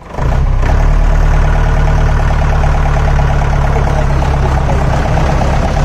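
4×4 jeep's diesel engine running steadily, with a low hum and an even clatter.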